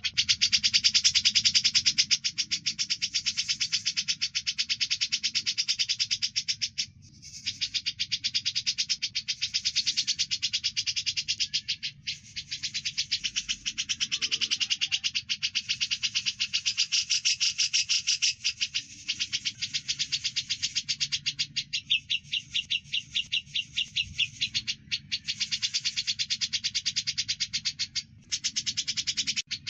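Fast, near-continuous chattering of cucak jenggot (grey-cheeked bulbul) mixed with Eurasian tree sparrow chirps: a dense stream of quick, high chips broken by a few brief pauses.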